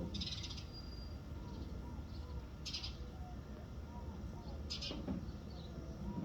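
Greater roadrunner at a quail feeding block giving short rasping calls, three times about two seconds apart, over faint chirps from other birds and a low steady rumble.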